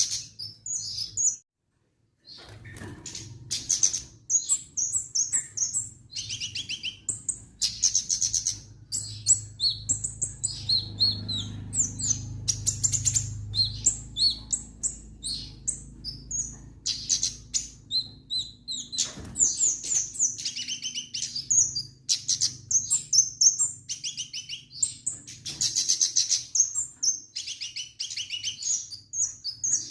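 Kemade songbird singing vigorously: a rapid, almost unbroken run of high chirps and trills, with a brief silent break about two seconds in.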